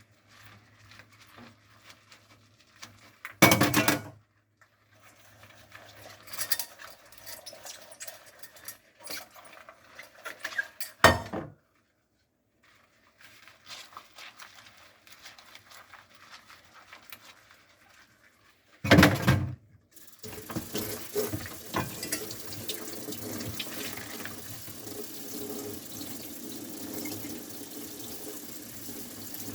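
Hand dishwashing at a kitchen sink: soft scrubbing and rubbing of dishes, broken by three loud clatters of dishes being knocked or set down. About two-thirds of the way through, the tap comes on and runs steadily as the dishes are rinsed.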